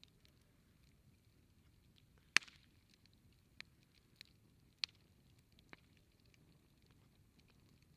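Wood campfire crackling: about five sharp, scattered pops of burning wood over a faint low hiss. The loudest pop comes about two and a half seconds in.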